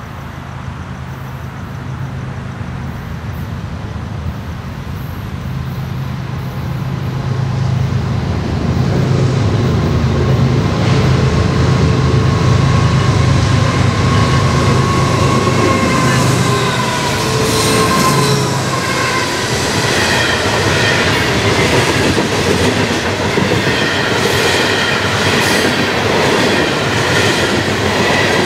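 Diesel freight train passing close by. The locomotives' engine drone builds as they approach and peaks around the middle. Then the freight cars roll past with steady wheel-on-rail rumble, clicking over rail joints and some wheel squeal.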